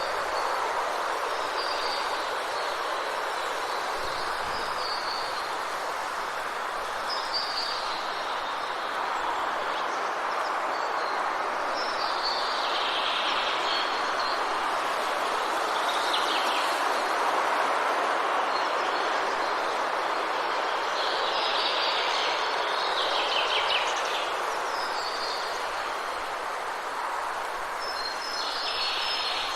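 Forest ambience: a steady, even rushing noise, with songbirds calling on and off over it in short high chirps and trills every few seconds, busiest in the second half.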